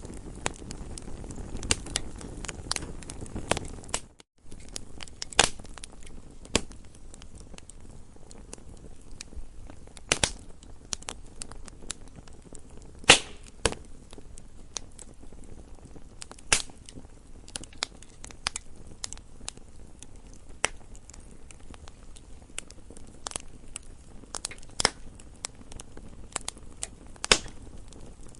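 Wood campfire crackling: irregular sharp snaps and pops over a low, steady hiss, with one louder pop about halfway. The sound cuts out for a moment about four seconds in.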